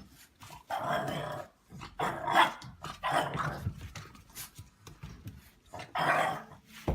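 A dog giving four short, rough vocal bursts, the loudest about two and a half seconds in.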